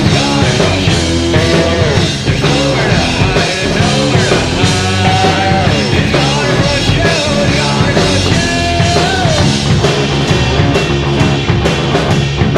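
Loud rock music: a full band with drum kit and a melodic lead, voice or guitar, sliding and bending in pitch over a steady driving beat.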